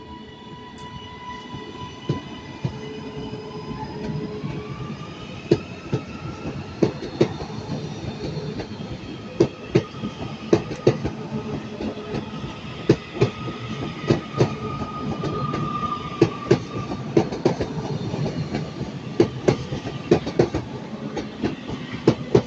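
A Northern multiple-unit train pulling away: a steady whine that glides up in pitch about four seconds in, then wheels clicking over rail joints and points, coming faster and louder as the train gathers speed.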